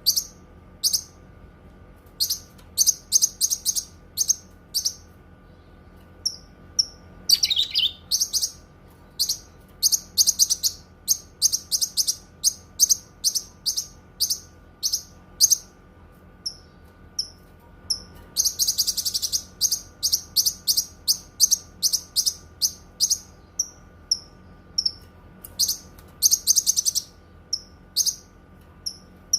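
Cucak kinoi songbird singing: quick series of sharp high chirps in bursts, with a long fast trill near the start and another about two-thirds of the way through, and a slurred falling note about a quarter of the way in.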